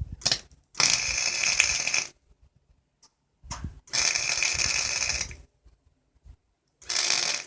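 Gasless flux-core MIG welder arc crackling in three bursts of one to two seconds each, with short pauses between: a run of stitch or tack welds.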